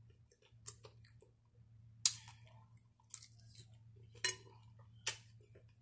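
Close-up chewing of a mouthful of salad with cucumber and greens: about five short, sharp mouth sounds spaced roughly a second apart, over a faint low hum.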